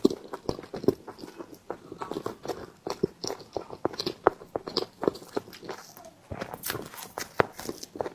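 Close-miked chewing and mouth sounds of a person eating steamed bread: a run of short, irregular clicks, several a second.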